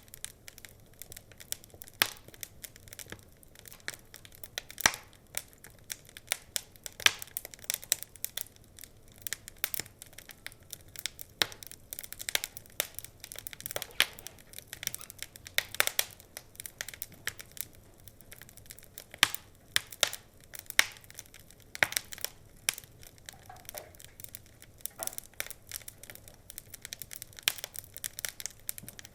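Wood fire crackling and popping: irregular sharp snaps, some louder than others, over a soft hiss of burning.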